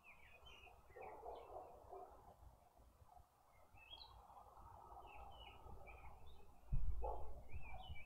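Small birds chirping repeatedly, short high chirps on and off throughout. About seven seconds in comes a sudden low thump, plausibly the lesser bushbaby leaping off the wooden feeder.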